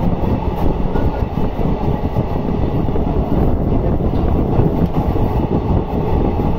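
Passenger train running at speed, heard from aboard: a steady, loud noise of wheels on rail.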